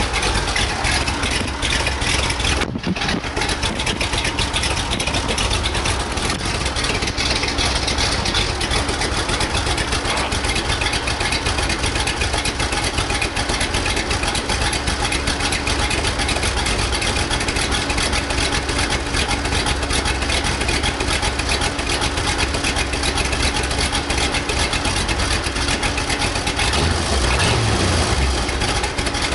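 Small-block Chevy 350 V8 idling steadily through its mufflers, with a slight pick-up in the low note near the end.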